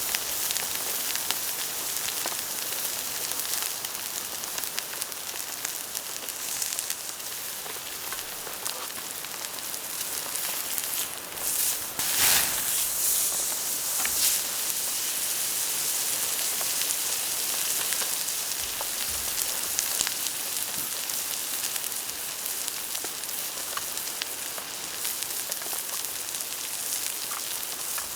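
Steady rain pattering with a wood campfire crackling. About twelve seconds in there is a brief, louder hiss.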